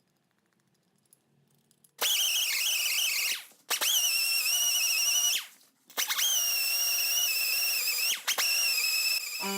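Power tool running with a high, wavering whine, starting about two seconds in and dropping out briefly twice.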